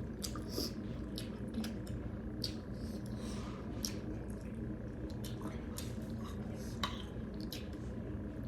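Mukbang eating sounds: chewing of wet rice and dal with scattered small clicks and clinks of cutlery against a plate, over a steady low hum.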